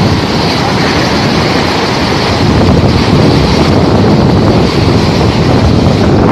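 Floodwater rushing down a valley bed: a loud, steady rush of water, with wind noise on the microphone.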